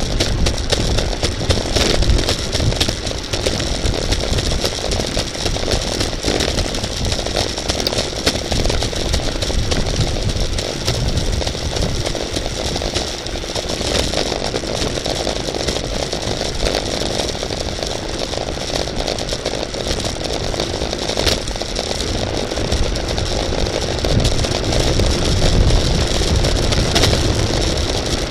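Steady wind rushing over the microphone, with the rumble and hum of a bicycle rolling on the road at racing speed.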